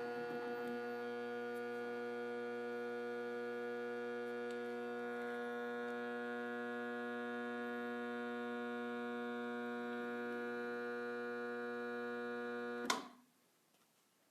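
GE window air conditioner's failing compressor giving off a steady electrical hum with many overtones. Near the end a click, and the hum cuts off suddenly.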